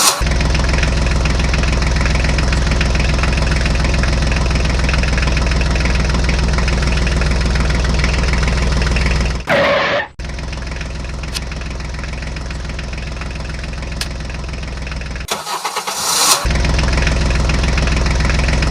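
Tractor engine running steadily, with two short breaks in the sound, the second about fifteen seconds in.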